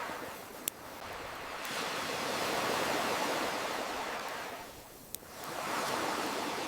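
Ocean waves washing in and ebbing away in slow swells, with two sharp crackles from a wood fire, one about a second in and one about five seconds in.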